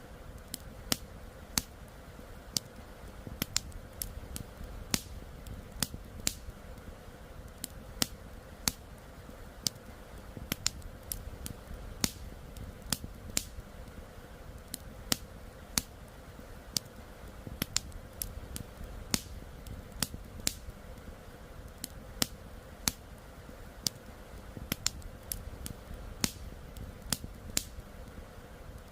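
Campfire crackling: sharp, irregular wood pops, about two a second, over a steady low rushing background.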